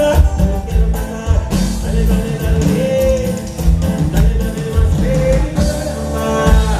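Live cumbia band music with a steady, pulsing bass beat and a melodic line over it.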